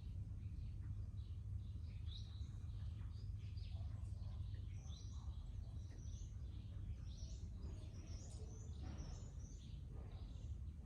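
Garden birds chirping and twittering, many short calls overlapping, over a steady low rumble.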